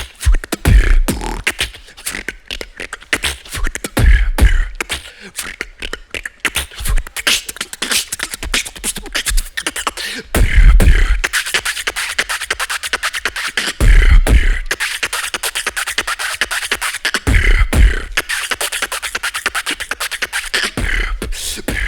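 Human beatboxing: a fast stream of mouth-made hi-hat clicks and snares, broken every few seconds by deep vocal bass hits, one of them held longer near the middle.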